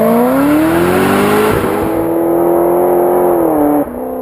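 Mud truck's engine revving up and held at high revs, then dropping off abruptly near the end.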